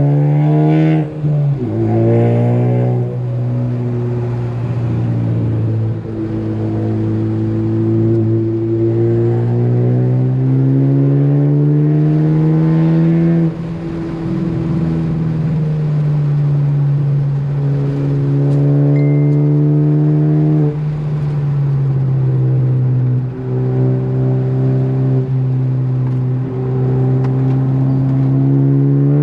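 Ford Focus ST's turbocharged four-cylinder engine driven hard on a race track. The revs climb, then fall sharply about a second in and at several later points as the driver shifts gear or lifts, then climb again.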